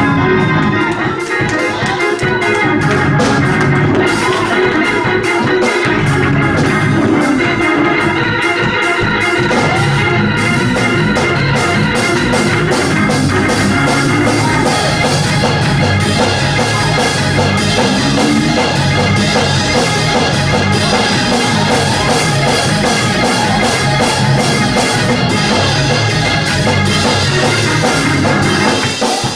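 Church organ music playing loudly and steadily, with a fast rhythmic beat of percussive hits.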